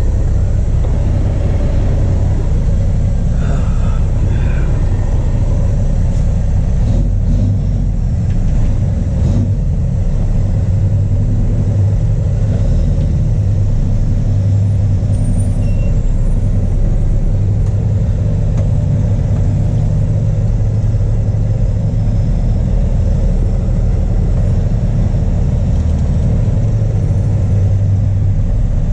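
Heavy diesel truck engine running steadily at low revs with a deep, even drone, as a tow truck slowly pulls a broken-down truck forward on a chain.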